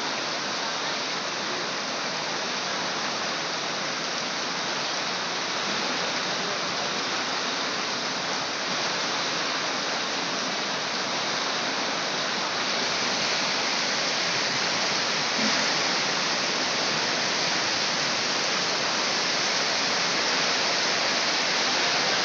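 Heavy rain pouring down steadily, a dense even hiss that grows a little louder toward the end.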